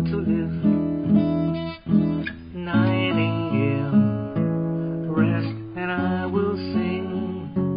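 Acoustic guitar music: strummed chords changing about once a second, with no vocals.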